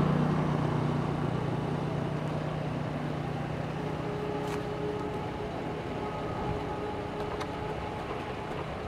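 Diesel-hauled passenger train running along the line: a steady low engine-and-rail drone that fades gradually over several seconds.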